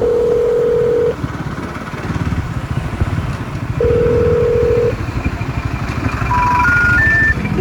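Two long, steady electronic beep tones, then three short beeps rising in pitch, over a constant low rumble of wind and a running motorcycle.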